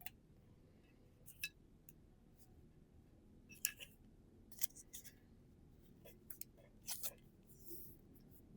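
Pokémon trading cards and their packaging being handled: scattered short, crisp clicks and snaps, the loudest about three and a half seconds in, with a soft sliding sound near the end.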